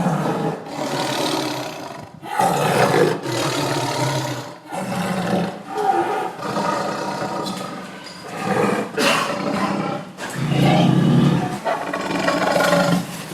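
A big cat roaring again and again: a run of loud, rough roars, each a second or two long, with short breaks between them.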